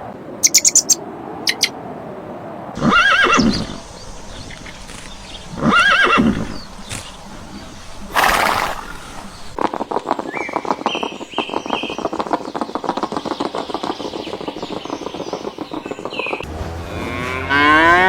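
A horse whinnying twice in short wavering calls, then a snort-like burst, followed by several seconds of fast rapid pattering. Near the end a cow starts mooing.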